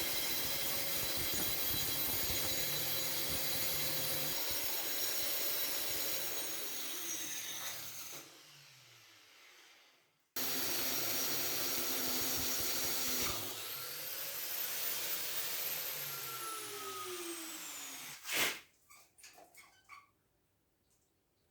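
Electric motor running with a steady high whine, then winding down with falling pitch. It starts again suddenly about ten seconds in, runs, and winds down once more. A sharp click and a few small clicks follow near the end.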